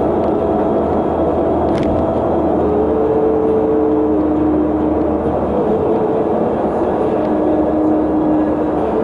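Steady road and engine noise from a moving vehicle, with a few engine hum tones that shift in pitch every second or two.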